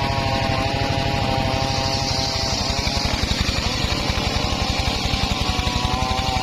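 Engine of a homemade circular saw rig running steadily with a fast, even pulse. A high hiss swells about two seconds in, and the pulsing grows sharper after that.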